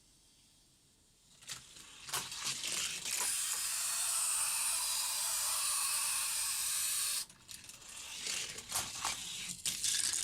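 Hot Wheels die-cast BMW 2002 running down plastic toy track. A few sharp clicks are followed by a steady rolling hiss of the small wheels on the track for about four seconds, which cuts off suddenly, and then scattered clacks and knocks as the car hits the stunt pieces and lands.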